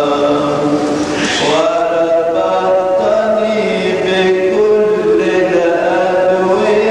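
Coptic Orthodox liturgical chant, sung unaccompanied as a long melismatic line. The voices hold notes and glide slowly between them, with no words clearly articulated.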